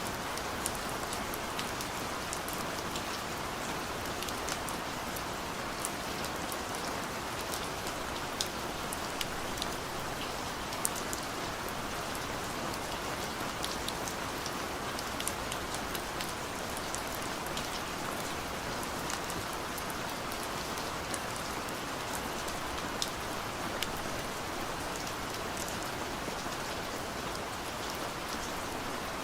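Heavy rain pouring steadily, a dense even hiss with scattered sharp drop ticks on top.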